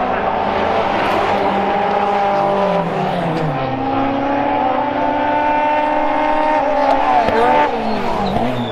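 Car engines running and revving, several at once, their pitch sliding down a few seconds in and dipping and rising again near the end.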